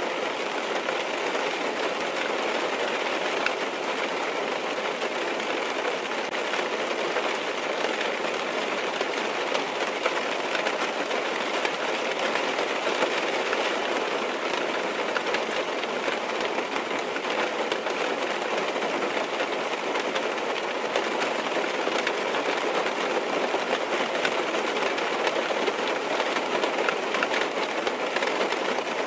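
Rain falling steadily on a car's roof and windows, heard from inside the cabin: a dense, even patter with faint scattered ticks of single drops.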